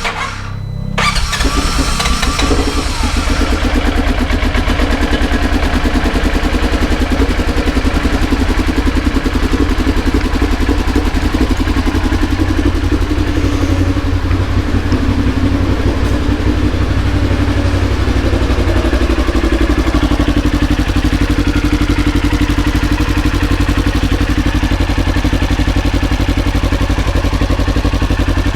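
Polaris Ranger 900 XP's twin-cylinder engine catching about a second in and then idling steadily on both cylinders, with two new fuel injectors fitted to cure a misfire.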